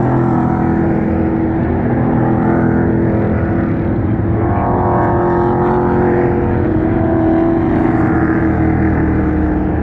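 Pro Truck race trucks' engines running at speed around an oval track, several engine notes overlapping in a steady drone.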